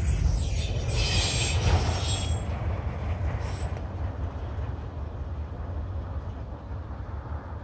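Freight train's autorack cars rolling past on the rails: a steady low rumble with a high wheel squeal for the first two seconds or so. The rumble fades as the cars move away down the track.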